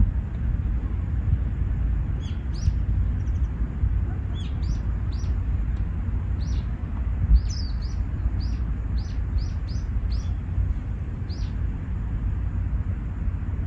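Small birds chirping in short, high calls, a dozen or so scattered through the middle of the stretch, over a steady low rumble.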